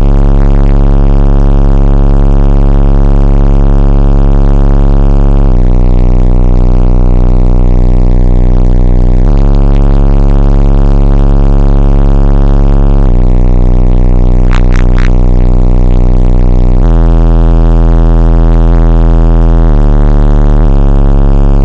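Four Incriminator Audio Warden 15-inch subwoofers in a car, ported at 30 Hz, playing deep bass at extreme level and overloading the recording. The bass holds one note for a few seconds, then steps to another, changing faster near the end, with a couple of brief crackles a little past the middle.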